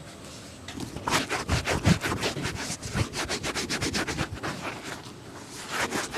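A leather shoe being buffed by hand with quick back-and-forth strokes, several a second. The strokes start about a second in and thin out to a few slower ones near the end.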